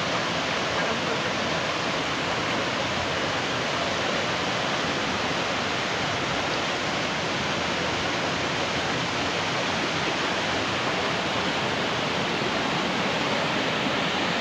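Falling water rushing steadily and evenly, with no break.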